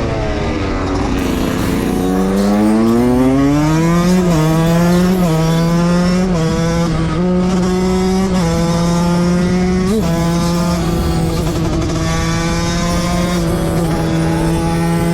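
Two-stroke motorcycle engine at full throttle. Its pitch dips, climbs steeply from about two seconds in, then holds high, rising and dropping slightly about once a second.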